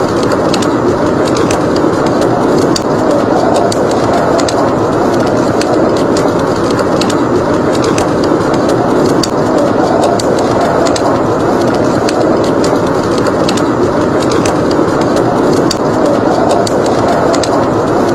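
Steady, howling blizzard wind with the frequent small crackles and pops of a wood fire burning in a fireplace.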